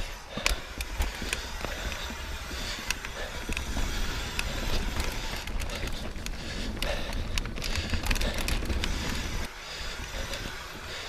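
Mountain bike riding down a rocky trail: tyres rolling over dirt and rock while the bike rattles with many sharp clicks and knocks. Wind rumbles on the camera microphone throughout.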